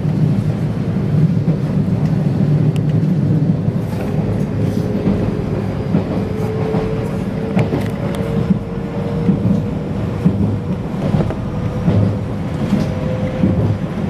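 Passenger train running, heard from inside the car: a steady rumble of wheels on rail, a few clicks and knocks, and a faint whine that rises slowly and then holds.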